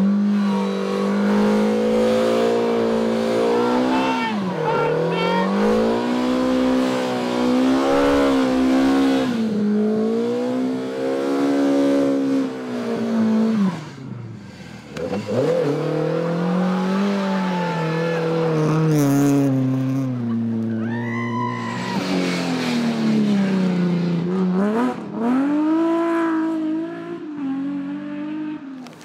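Rally car engines revving hard on a stage, the pitch repeatedly climbing and dropping with throttle and gear changes. The sound dips sharply about 14 seconds in, then builds again.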